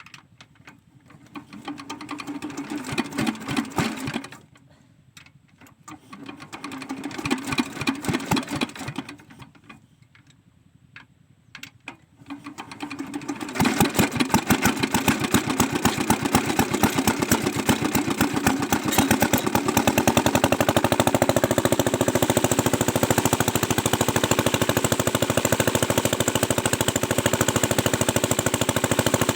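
Diesel water-pump engine being started: it turns over twice in bursts of rapid strokes that die away, sputters briefly, then catches about halfway and runs steadily with a fast, even knock.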